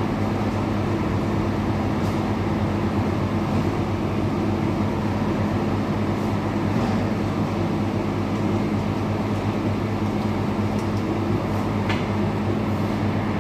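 Motorized pesticide sprayer running with a steady, even hum while spraying for cockroaches.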